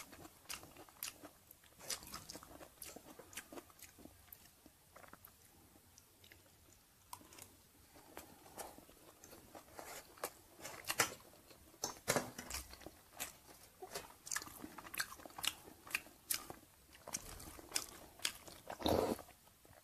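Close-miked chewing of stir-fried chicken organs, many small wet clicks and crunches of mouth sounds coming unevenly, thinning out for a few seconds and then picking up again. Just before the end a louder, longer sip of sour soup from a spoon.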